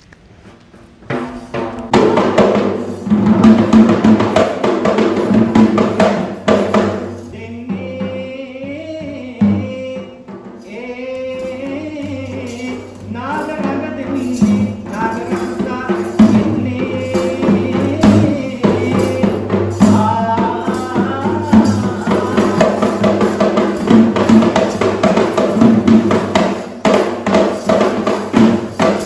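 Sri Lankan drum ensemble starting up about a second in and playing a fast, dense rhythm to accompany the Naga Raksha cobra dance. From about seven seconds in, a wavering melodic line runs over the drumming.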